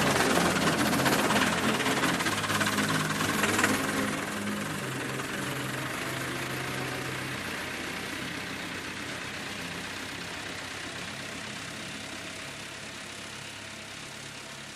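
Massey Ferguson tractor engine running, loud for about the first four seconds, then growing steadily fainter.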